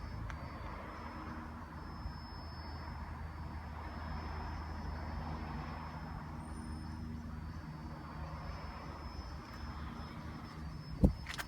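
A vehicle engine running steadily, with a low, even hum throughout. One sharp knock comes near the end.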